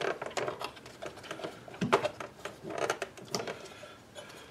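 Irregular small clicks, taps and knocks of a plastic dashboard radio and climate-control assembly being handled and worked apart by hand, its fasteners and clips being undone. The loudest knocks come about two seconds in and a little after three seconds.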